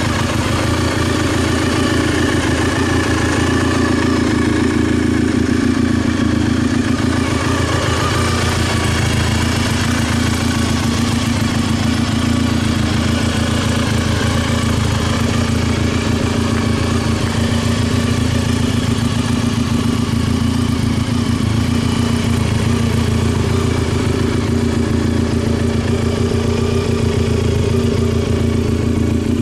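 Honda RVF400's V4 engine idling steadily through its exhaust, with no revving.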